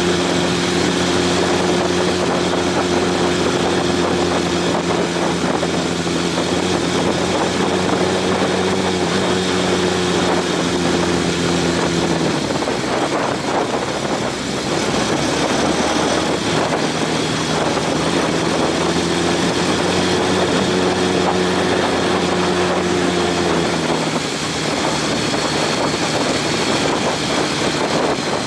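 Honda CB750 inline-four engine running at a steady pitch while riding, under a loud rush of wind. The engine note drops away about twelve seconds in and again near the end, leaving mostly wind, and in between it comes back steady.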